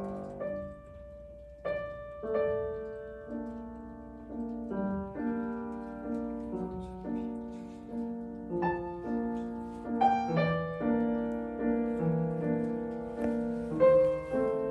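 Solo piano playing a slow, gentle piece: a held chord fades away over the first second or two, then flowing broken chords with notes every half second or so, growing a little louder toward the end.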